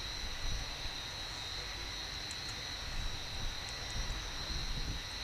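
Outdoor airfield ambience: a fluctuating low rumble under a steady, high-pitched whine.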